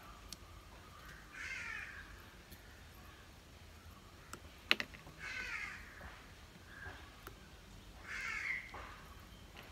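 A bird calling harshly three times, each call under a second long and about three seconds apart, with one sharp click about halfway through.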